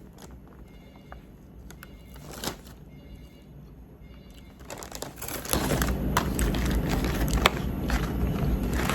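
Fast-food paper bag and wrappers rustling and crinkling as they are handled, with scattered clicks. About halfway through, a steady low rumble comes in underneath and stays.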